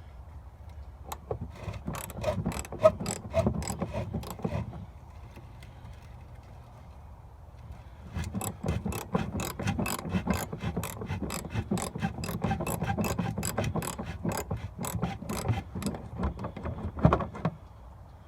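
Ratchet wrench clicking rapidly as a 15 mm nut is worked off the top of a shock absorber's rod, in two runs of several seconds with a pause of a few seconds between.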